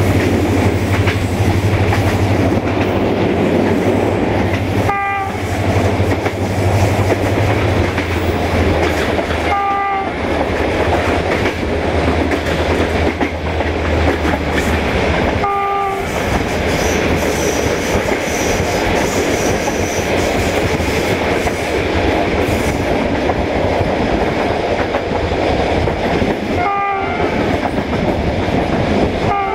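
Passenger train running behind a GM-engined Class 65 diesel locomotive, heard from a coach window: steady wheel and rail noise with clickety-clack and a low diesel drone that fades about halfway through. The locomotive's horn gives four short toots, spaced several seconds apart.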